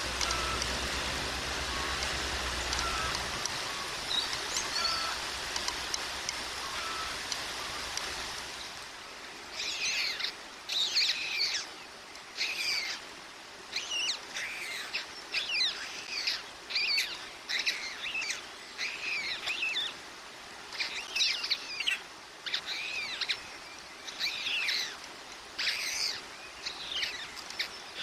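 Steady hiss of rain for the first nine seconds or so, then repeated short, high chirping bird calls in quick bouts.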